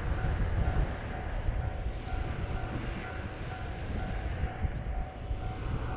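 Distant rumble of an approaching Kiya 141 diesel track-inspection railcar, mixed with a low, fluttering wind buffet on the microphone.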